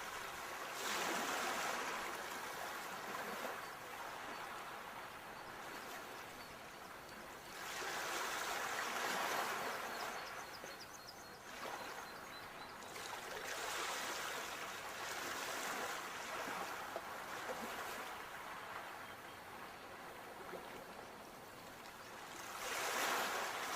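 Sea waves breaking and washing up the shore, the surf swelling and falling away every six seconds or so.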